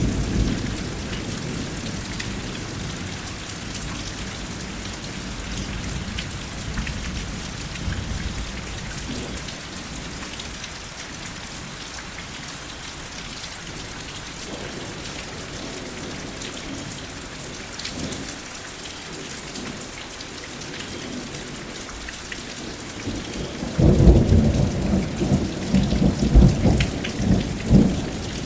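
Steady rain falling, with thunder. A low rumble dies away over the first several seconds, and a louder peal of thunder breaks in near the end and rolls on in waves.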